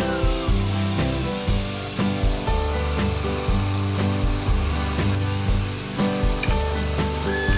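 Background music with a steady beat laid over a corded electric chainsaw cutting into a thick hardwood slab; the saw's whine drops in pitch as the chain bites into the wood near the start.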